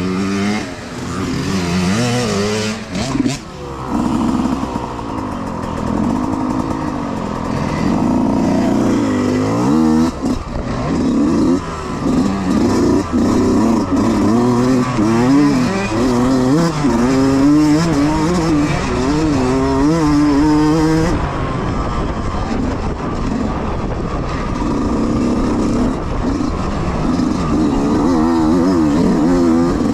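Youth dirt bike engines revving hard, the pitch climbing and dropping again and again as the bikes accelerate and shift through the race course.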